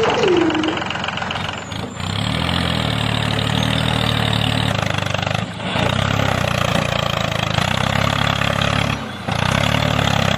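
Tractor engine running steadily, with brief dips about every three and a half seconds; a falling tone fades out right at the start.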